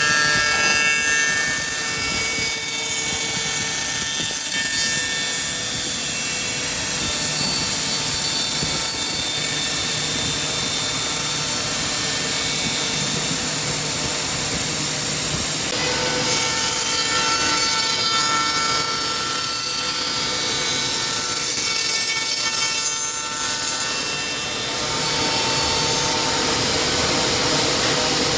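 Single-head CNC tenoning machine (SDC 140) running, its cutter spindle whining steadily as it cuts tenons in wood, with a new pass starting about halfway through.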